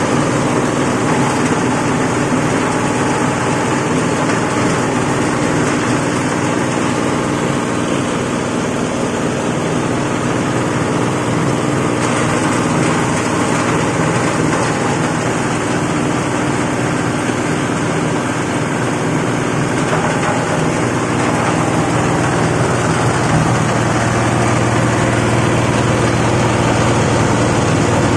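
Rag-cloth shredding machine running steadily and loudly, a dense mechanical noise with a low hum that grows stronger about twenty seconds in.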